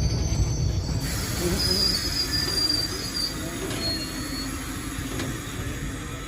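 Passenger train running on the rails, a steady low rumble that slowly gets quieter. A high metal squeal from the wheels comes in about a second and a half in and again briefly about four seconds in.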